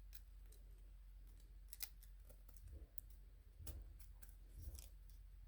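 Near silence, with a few faint clicks and light rustles of cardstock pieces being handled and pushed into place.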